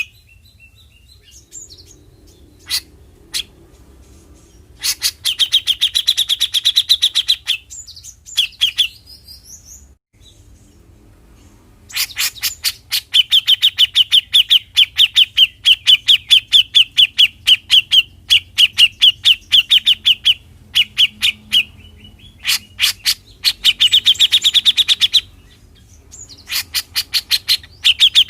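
Grey-cheeked bulbul (cucak jenggot) giving its 'besetan' call: rapid trains of short harsh notes, many a second, in bouts lasting from under a second to about eight seconds with short pauses between. The longest bout begins about twelve seconds in.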